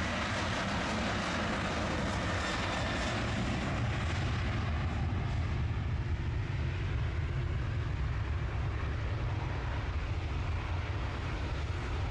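Airliner jet engines running near the runway: a steady rumble with a high hiss and a thin whine that fade after about five seconds.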